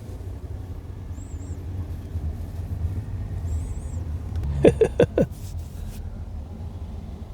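Steady low rumble of vehicles around a car park. Two faint high chirps come through it, and about five seconds in there are four short, loud pitched calls in quick succession.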